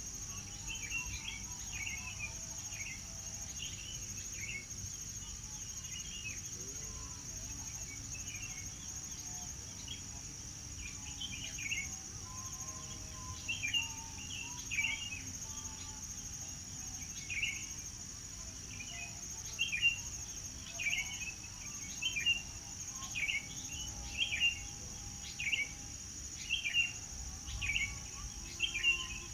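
A bird chirping over and over in short, high calls, about one a second, growing louder in the second half. Under it runs a steady, high-pitched insect drone.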